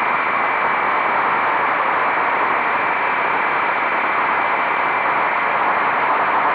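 Steady wind rush over the microphone of a motorcycle on the move, an even hiss with no clear engine note.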